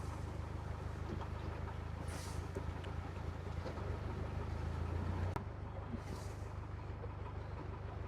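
Low, steady diesel engine hum of a narrowboat under way, easing down a little about five seconds in.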